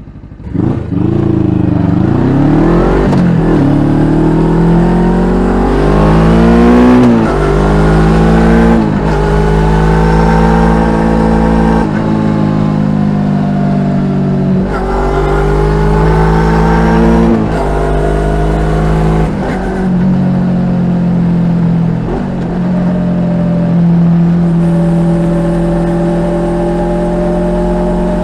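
Suzuki GSX250R's parallel-twin engine heard through an aftermarket slip-on muffler while riding: the pitch climbs and drops back at each upshift several times over, then holds steady near the end.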